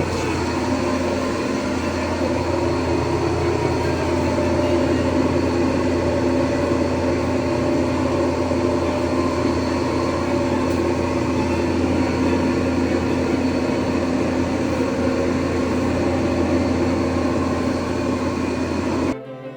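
Several drying fans running together: a loud, steady airflow noise with a constant low hum. It cuts off suddenly near the end.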